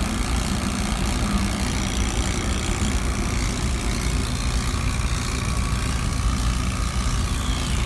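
Refrigeration vacuum pump running with a steady low hum while it evacuates the system, which has been pulled down to about 230 microns.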